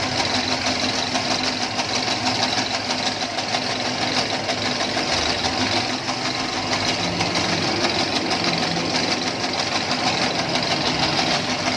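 Noodle-making machine converted from hand crank to motor drive, running steadily with its rollers and cutters turning.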